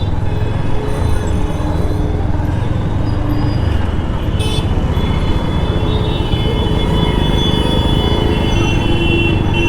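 Motorcycle under way on a road: the engine running steadily, buried in a heavy wind rumble on the camera microphone.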